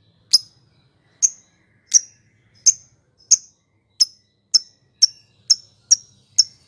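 Lovebird giving short, sharp, high-pitched chirps one at a time, speeding up from about one every 0.7 seconds to two or three a second.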